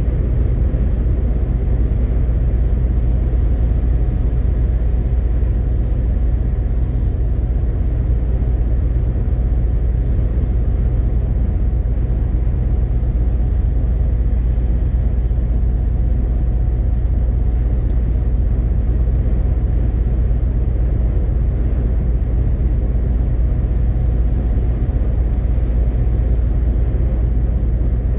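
MAN TGX 18.520 truck under way, its inline-six diesel engine and road noise making a steady, unbroken low drone.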